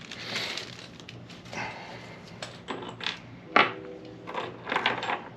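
Small metal hardware, new bolts and washers, clinking as it is handled and set down: several sharp clinks with brief metallic ringing, the loudest a little past halfway.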